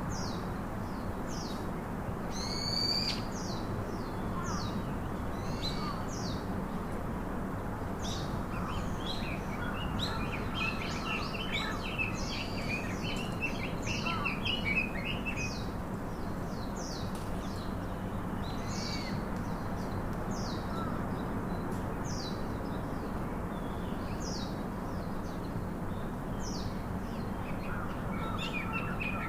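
Several wild birds chirping and calling, short high calls coming throughout, with a busy stretch of rapid twittering in the middle, over a steady low background hiss.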